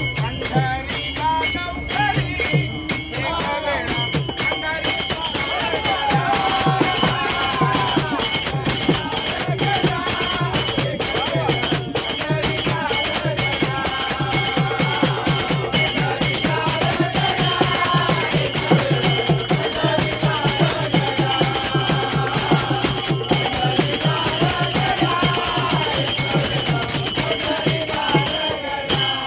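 A bhajan group singing a devotional song over a steady beat of about three strokes a second, with metal hand cymbals jingling and ringing throughout. The singing comes in a few seconds in.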